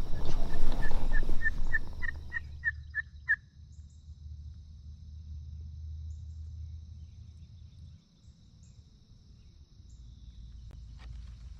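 Turkey yelping: a series of about a dozen short calls on one pitch, growing louder over about three seconds, the last ones slurring downward. A steady high buzz runs underneath.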